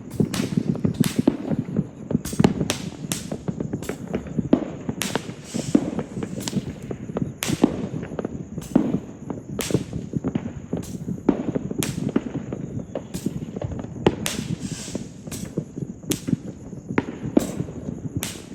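Fireworks display: a rapid, irregular series of sharp bangs from aerial shells bursting, over a continuous low rumble and crackle.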